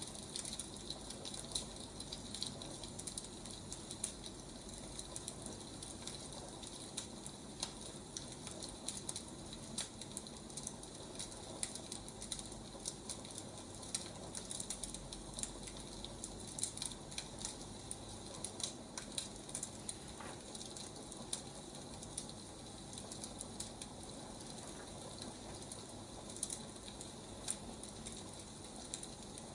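Wood fire crackling, with irregular sharp snaps and pops over a steady soft hiss.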